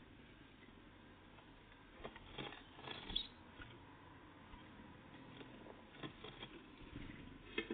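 Tits at a peanut feeder, pecking at and hopping on it: a scatter of small taps and clicks, densest about two to three seconds in, with a few more near the end.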